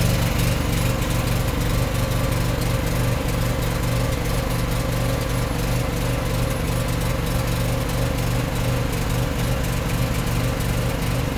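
Small pony motor on a detachable-gooseneck lowboy trailer running steadily, driving the hydraulic pump while the lift cylinders raise the gooseneck.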